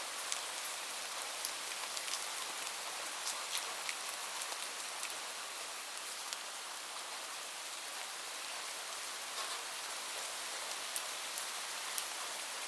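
Steady rainfall, an even hiss of rain with scattered sharper ticks of individual drops striking a surface close by.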